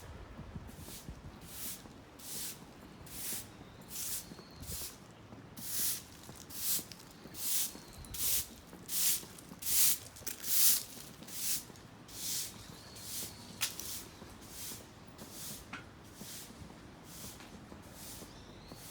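Rhythmic scraping swishes, a little more than one a second, growing louder toward the middle and then fading away. A faint short high chirp repeats every four seconds or so.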